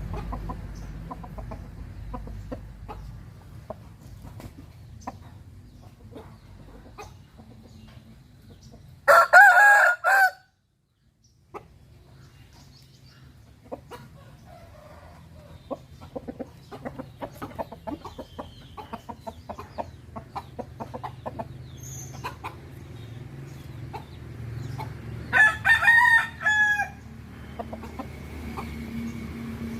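A rooster crowing twice, each crow about a second and a half long and about sixteen seconds apart, with quieter clucking and small ticks between the crows.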